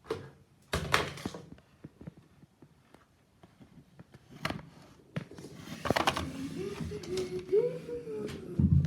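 Short bursts of rustling and crinkling as aluminium foil is handled, with a near-silent pause in the middle. In the last few seconds a person starts humming a wavering tune.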